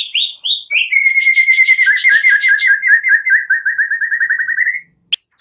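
Songbird song from a bird-song lure recording: a few quick falling chirps, then a long, rapid, even trill that stops abruptly about a second before the end, with a new run of high falling notes just starting at the very end.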